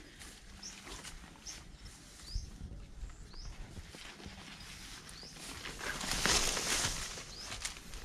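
Short rising chirps from a bird, repeating about once a second, with a louder burst of rustling about six seconds in.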